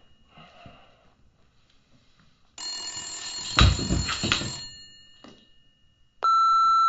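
A telephone ringing with a bright multi-tone bell, a low thump partway through the loudest ring. Near the end an answering machine gives one long steady beep, signalling that it is starting to record a message.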